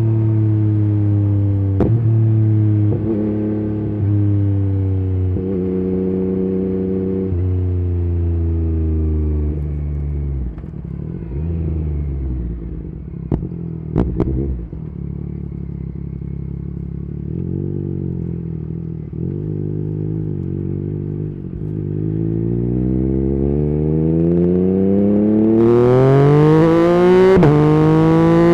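Yamaha MT-09's inline three-cylinder engine through an Akrapovic carbon exhaust with the dB killer removed, ridden: its note steps down through several downshifts as the bike slows, with a few sharp cracks at low revs around the middle. Then the revs climb steadily under acceleration, with a gear change near the end.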